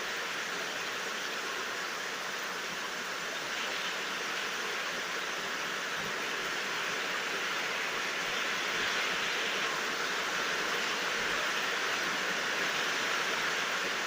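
Steady heavy rain falling, an even hiss with no thunder, growing slightly louder about halfway through.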